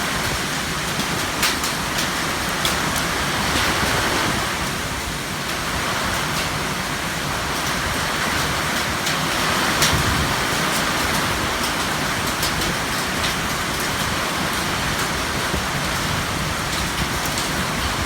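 Heavy rain falling steadily, with the sharp ticks of drops striking a nearby surface.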